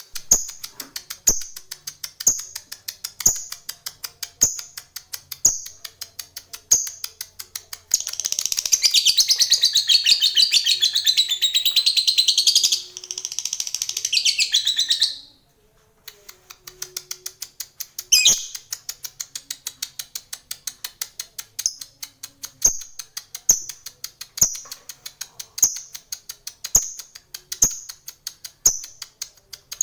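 Lovebird singing a ngekek: a fast ticking chatter with a sharper note about once a second, which about eight seconds in breaks into one long, dense, louder trill lasting some seven seconds and cutting off abruptly, before the ticking chatter resumes.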